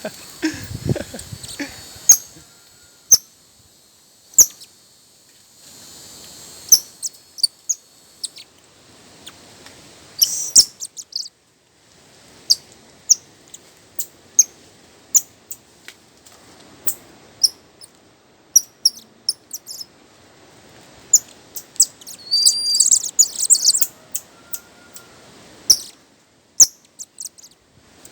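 Bird chirping: short, high, sharp chirps at irregular intervals, with a denser flurry of chirps about 22 seconds in.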